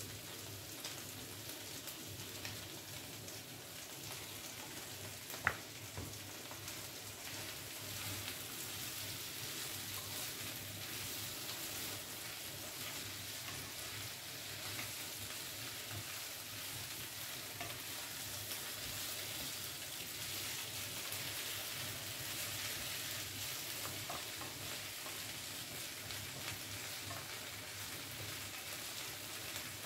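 Chicken, black mushrooms, potatoes and peppers frying in oil in a stone-coated frying pan, sizzling steadily while a wooden spatula stirs them. One sharp knock about five seconds in.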